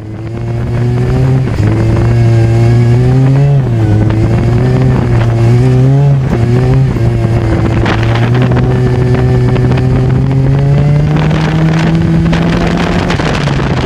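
Autocross car's engine heard from inside the cockpit while driving on mud, its pitch dipping and rising several times in the first half, then climbing steadily for about five seconds before dropping near the end. Wind buffeting through the front windscreen net hits the in-car microphone throughout.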